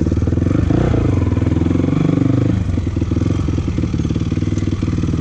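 Honda CRF450 dirt bike's single-cylinder four-stroke engine running on the throttle, then dropping to a low, pulsing near-idle about two and a half seconds in.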